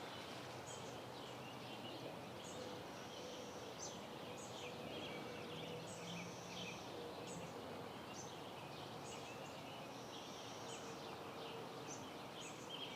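Faint steady background noise with birds chirping in short, high notes about every second.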